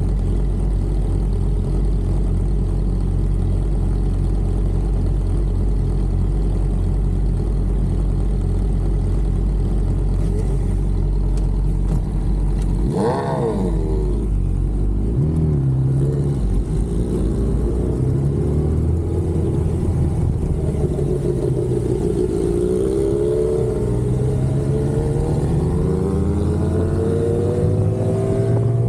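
Sportbike engine idling with a steady low rumble, then a sharp rev blip about halfway through. It then pulls away, the revs rising again and again as it accelerates.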